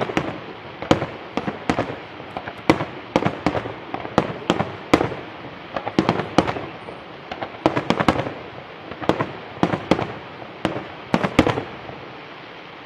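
Aerial fireworks shells bursting in an irregular rapid barrage, sharp reports several a second, often in quick doublets, over a continuous rumble of echo, tailing off near the end.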